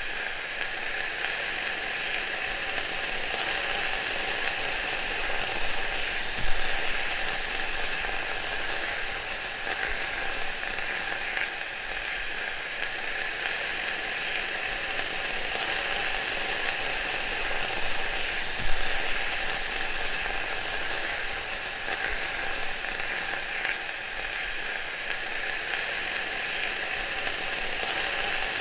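Food frying in hot oil: a steady sizzle, with two sharper pops standing out, one about six seconds in and one about eighteen seconds in.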